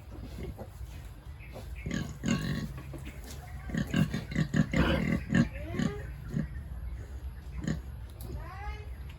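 Pigs grunting in a quick run of short grunts about four seconds in, with newborn piglets squealing: short high squeals that rise and fall, one of them near the end.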